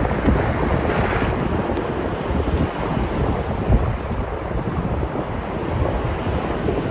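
Sea surf on the shore, a continuous rush of breaking waves with wind buffeting the microphone. A wave breaks a little more brightly about a second in.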